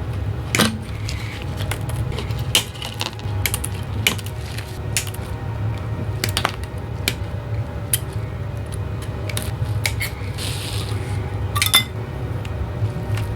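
Irregular small clicks and taps of hard objects, like tools and plastic parts being handled on a workbench, over a steady low hum, with a brief hiss about ten seconds in.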